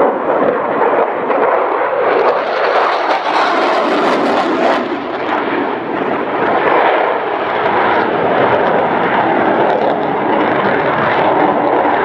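Aircraft engine noise, a loud steady rushing sound that swells and brightens between about two and five seconds in, as an aircraft passes.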